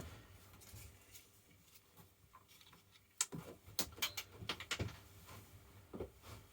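A handful of sharp clicks and taps from small objects being handled on a workbench, bunched together about halfway through, with one more knock near the end.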